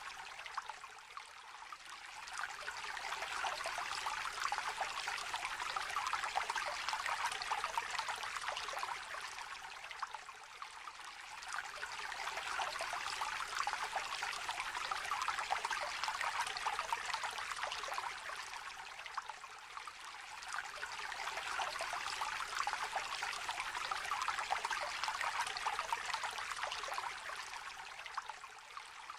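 A small river trickling and babbling steadily, its level swelling and easing every nine seconds or so.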